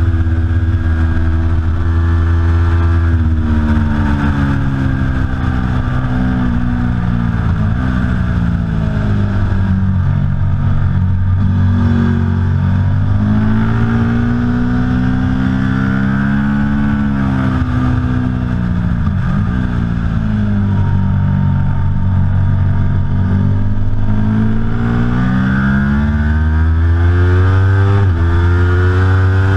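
Aprilia Tuono V4 Factory motorcycle's V4 engine at racing speed. The pitch climbs through the gears, drops away under braking and downshifts, then climbs again, over steady loud engine and wind noise.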